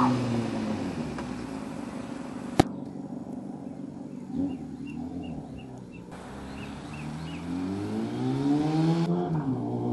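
Kawasaki ZX-6E inline-four motorcycle engine through cut-down, gutted stock mufflers, its revs falling away from a high pitch and then rising and falling again near the end. There is a single sharp snap about two and a half seconds in.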